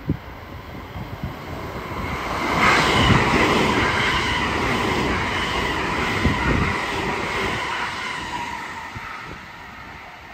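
An eight-car JR West 225 series and 223 series electric train passes through the station at speed without stopping. The rush of wheels and motors builds to its loudest a few seconds in, with a steady high whine running through it, then fades as the train runs off.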